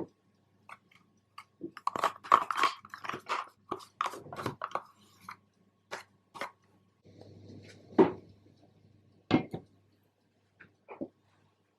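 Close, irregular kitchen handling noises: small clicks, taps and crunchy rustles, busiest a couple of seconds in, with two sharp knocks near the end.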